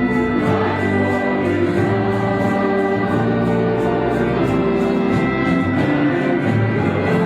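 Christian worship music: a choir singing long held notes over instrumental accompaniment, with a soft regular beat in the background.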